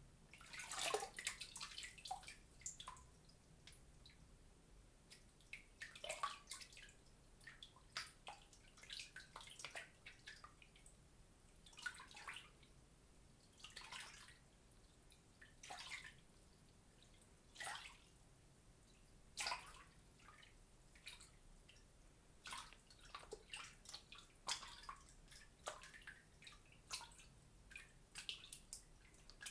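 A run of small water splashes and drips, a short plop or splatter every second or so at irregular spacing, a few with a quick sweep in pitch.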